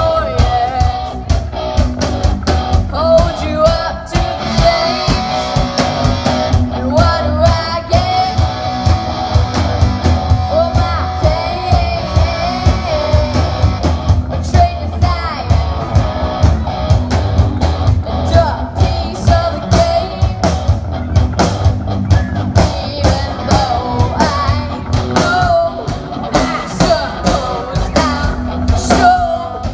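Rock music: a singer over guitar and a steady drum beat.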